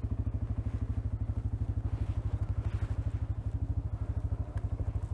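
CFMoto CForce ATV's single-cylinder engine running steadily with an even, rapid throb.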